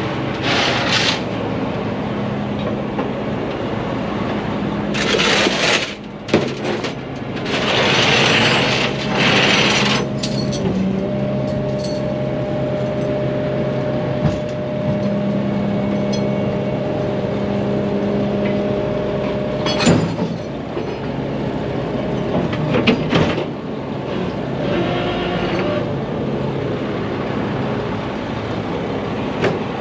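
Heavy truck diesel engine running steadily. Several short bursts of hissing and a few sharp knocks sound over it, with a steady higher whine for several seconds in the middle.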